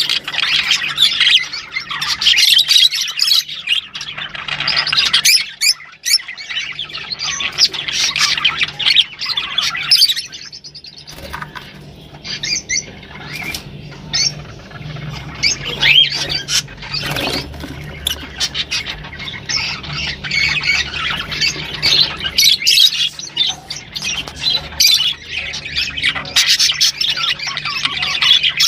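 Rosy-faced lovebirds chattering and squawking, many shrill calls overlapping, easing to a quieter stretch about halfway through before building up again.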